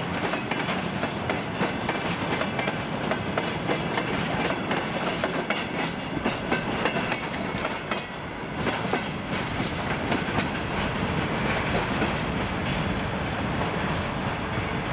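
Freight train wagons rolling past, their wheels clattering rapidly over the rail joints. The clatter thins out in the second half as the last wagon passes and the train rolls away.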